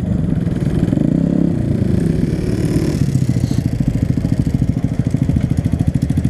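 Honda Grom's small single-cylinder engine running at low speed, with a fast, even pulse.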